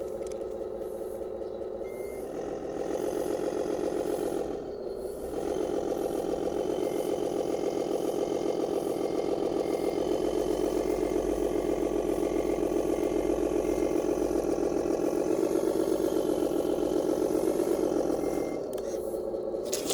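A 1:14 RC MAN 8×4 dump truck running its simulated diesel engine sound, mostly at a steady idle. The engine note picks up about two seconds in, dips briefly around five seconds, and shifts again near the end.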